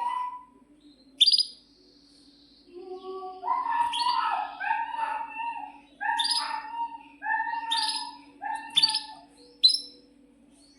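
Domestic canary singing in short phrases, mixing sharp high chirps with lower, fuller notes. A lone chirp comes about a second in, then a run of phrases at about one a second from roughly three and a half seconds to near the end.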